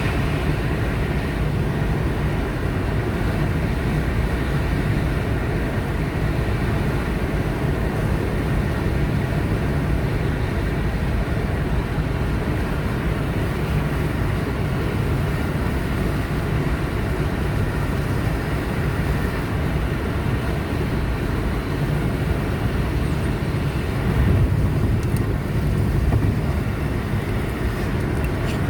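A car driving along a highway, with steady engine and tyre noise. The noise swells briefly about three-quarters of the way through.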